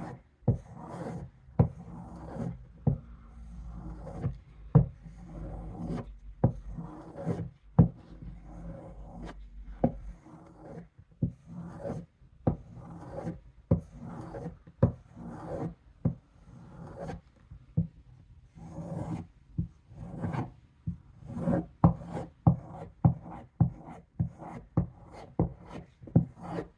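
Knife blade being drawn across the sharpening stone of a Work Sharp guided sharpener in repeated rasping strokes, roughly one or two a second, while the edge of a Gerber 06 automatic knife is honed at a 17-degree angle.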